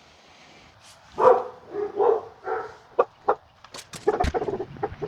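A dog barking, several loud barks in quick succession followed by a run of shorter, sharper barks.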